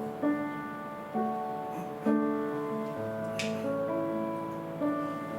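Keyboard playing slow, sustained chords, moving to a new chord roughly every second.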